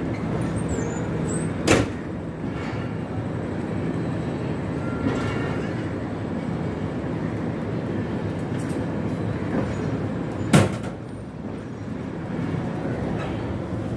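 Steady rumbling noise of a train at a station platform, broken by two sharp knocks about nine seconds apart, the second one louder.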